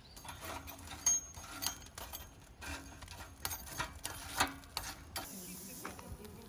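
A run of irregular sharp clicks and knocks, about a dozen spread over several seconds, like hard objects being handled and tapped together.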